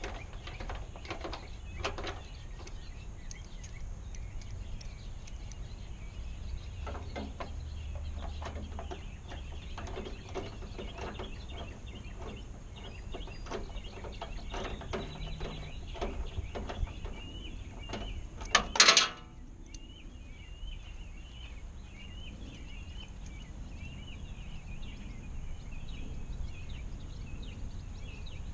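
Scattered light clicks and knocks of hands fitting and bolting in a turn signal housing, with one loud clatter about two-thirds of the way in. After that, birds chirp repeatedly in the background.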